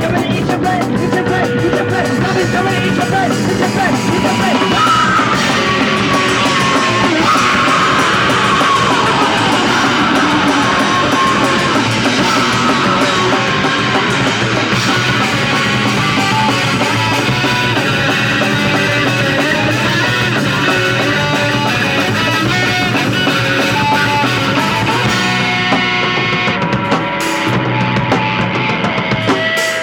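Live punk rock band playing loud: distorted electric guitar over a drum kit, with the high end thinning out near the end as the drums carry on.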